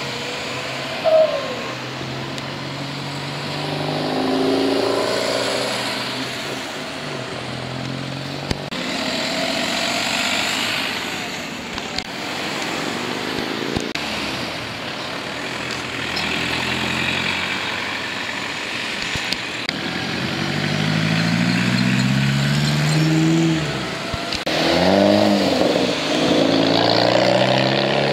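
Modified cars pulling away one after another, their engines revving and rising in pitch as they accelerate through the gears. The loudest one accelerates past near the end.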